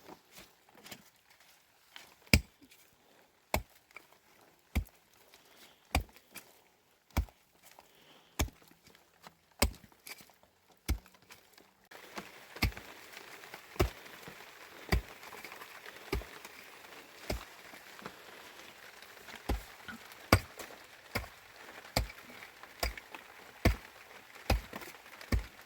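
Rhythmic chopping blows of a hand tool, about one every 1.2 seconds, coming a little faster near the end. From about 12 seconds in, a steady hiss lies under the blows.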